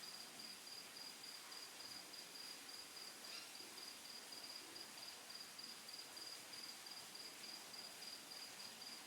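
A cricket chirping faintly and steadily, a run of short high-pitched pulses several a second, over low room hiss.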